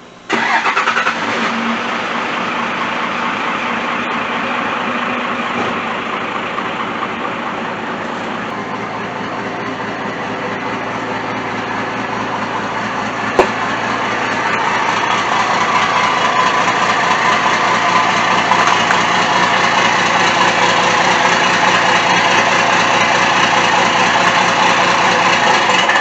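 Pickup truck engine starting and then running steadily, a little louder in the second half, with one sharp click about halfway through; the sound cuts off suddenly at the end.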